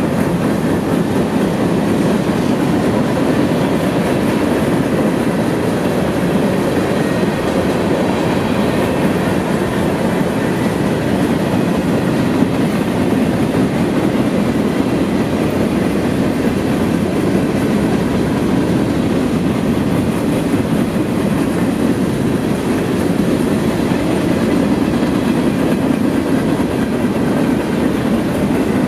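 Freight train's boxcars rolling past at steady speed: a continuous rumble of steel wheels on the rails.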